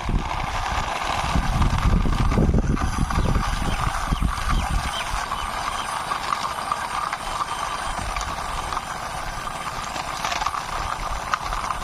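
A toy Jeep's wheels rolling along a wall as it is pushed by hand, a steady rattling whir with a heavier low rumble in the first few seconds.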